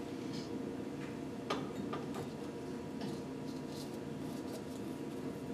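A few light, scattered clicks from small parts being handled, over a steady background hum.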